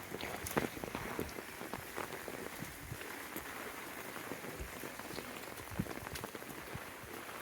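Steady rain, with many separate drops ticking close by.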